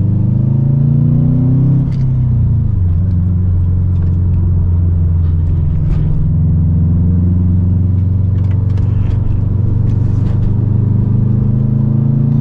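2008 Subaru STI's turbocharged 2.5-litre flat-four running through an Invidia catted downpipe and Invidia N1 exhaust while driving. The revs climb, drop about two seconds in, then hold steady at cruise and rise a little near the end.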